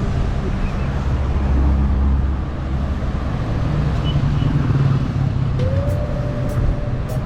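Motor vehicle running close by over a steady low rumble of road and wind noise, with an engine tone rising and then holding near the end.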